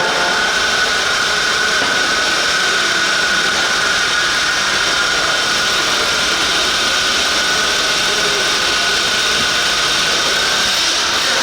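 Motors of an RC pulling machine running under load during a pull: a steady high whine over a loud, even noise.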